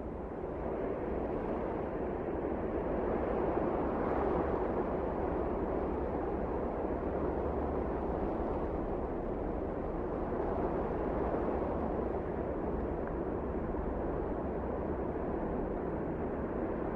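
Wind blowing hard in a snowstorm, a steady rushing noise with a low rumble that swells over the first few seconds and then rises and falls gently in gusts.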